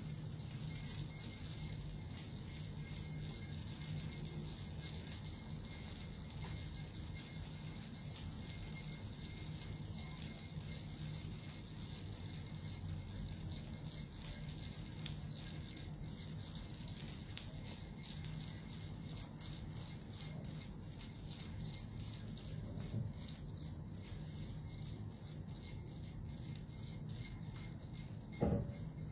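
Small Japanese suzu bells and a metal rattle shaken without pause: a continuous, shimmering jingle that eases off somewhat over the last few seconds. A brief low thump comes near the end.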